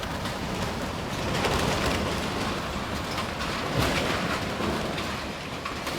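Storm-force wind blowing hard across the microphone, with a few knocks and rattles in the gusts.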